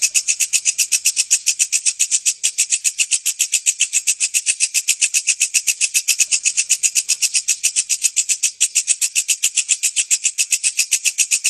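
Walang kecek insect calling: a loud, continuous, high-pitched rattling chirp made of rapid, evenly spaced pulses, about eight a second.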